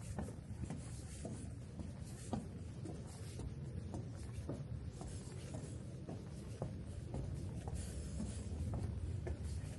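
Footsteps of someone walking, a soft irregular step about once or twice a second, over a steady low rumble.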